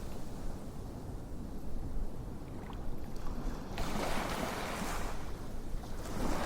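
Ocean waves washing in, a rushing surge that swells and fades about four seconds in and another near the end, over a steady low rumble.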